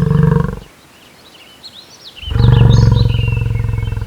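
A large animal giving long, low, roaring calls: one ends about half a second in, and the next starts about two seconds in and carries on. Birds chirp in the pause between the calls.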